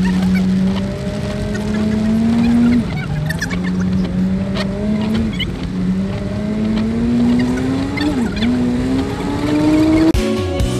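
Car engine accelerating through the gears: a steady hum that climbs in pitch and drops back sharply at three gear changes. Music starts abruptly near the end.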